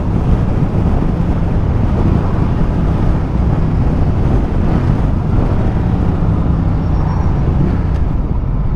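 Ducati Multistrada motorcycle under way, its engine running at a steady speed under an even rush of road and wind noise.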